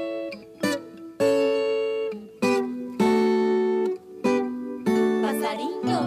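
Viola caipira, the Brazilian ten-string folk guitar, strummed in a series of chords, each struck sharply and left to ring, about one a second.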